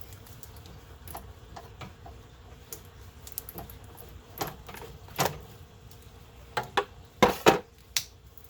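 Irregular clicks and clinks of hand tools and fasteners against car parts. There are a few light ticks at first, then a cluster of sharper, louder knocks over the last few seconds.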